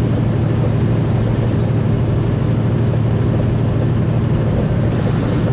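Semi truck's diesel engine droning steadily at highway cruising speed, heard from inside the cab along with road noise.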